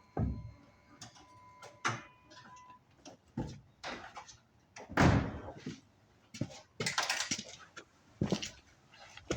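Irregular knocks and clatter of hand tools against metal during work under a truck, the loudest about halfway through. A steady high beep runs under the first couple of seconds and stops.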